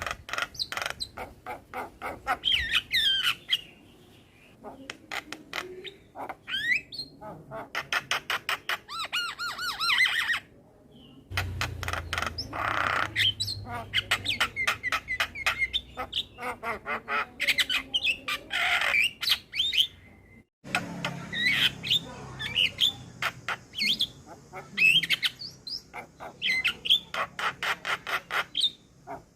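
Male Javan myna singing a full, varied song: rapid runs of clicks and chattering notes, harsh squawks and wavering whistled slurs. The song breaks off abruptly twice and starts again.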